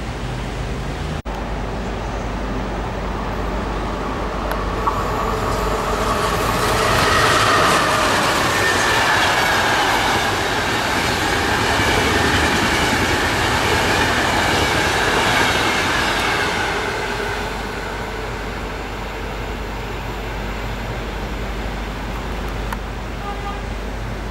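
Passenger train of coaches passing close by, a rumbling clatter of wheels on rails with a high wheel squeal. It builds up a few seconds in, is loudest through the middle, and fades away after about seventeen seconds.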